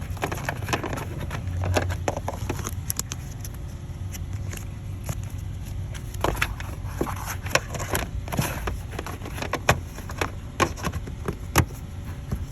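Scattered clicks and knocks of hand work, fitting a new fuel pump module and its connector into a car's fuel tank, over a low steady rumble. The knocks come more often and more sharply after the first half.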